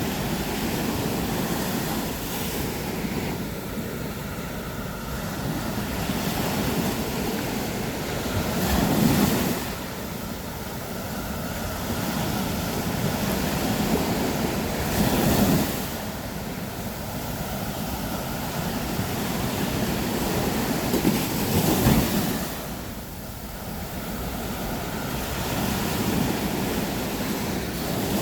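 Sea waves breaking on a beach: a continuous wash of surf, with three louder breakers crashing about six to seven seconds apart.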